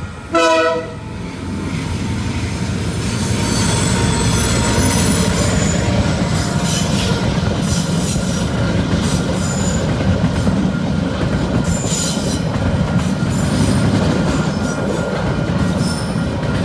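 A KiwiRail DL-class diesel locomotive gives one short horn blast, then its train rolls past over the crossing with a heavy rumble and squealing wheels. Level crossing bells ring steadily underneath.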